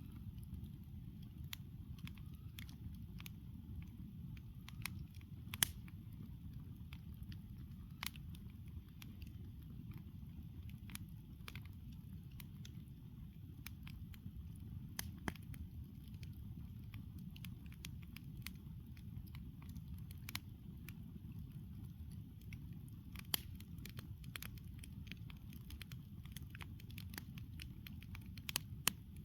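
Wood campfire burning, crackling with irregular sharp pops over a steady low rumble.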